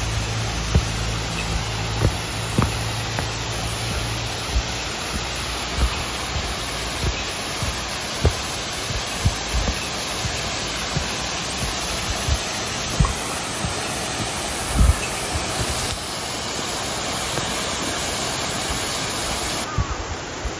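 Rushing water of a mountain stream: a steady, even rush with occasional brief knocks or splashes.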